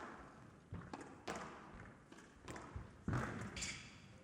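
Squash ball struck by rackets and hitting the court walls during a rally: a string of sharp smacks every half-second to second, ringing in a large hall.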